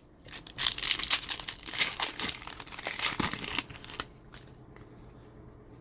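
Plastic foil wrapper of a 2023 Mosaic Football card pack being torn open and crinkled, with dense crackling for about three and a half seconds, then a few faint clicks as the cards are handled.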